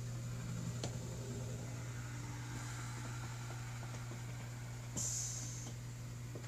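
Novo XT making a waterjet-like hissing noise: a faint hiss in the middle and a short, brighter, high hiss about five seconds in, over a steady low hum.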